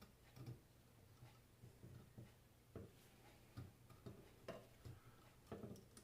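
Faint, irregular clicks and taps of small metal parts and tools being handled while a car alternator is put back together, over a faint steady hum.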